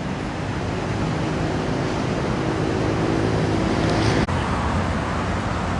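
Road traffic noise with a motor vehicle's engine hum building over a few seconds. It breaks off suddenly about four seconds in, leaving steady traffic noise.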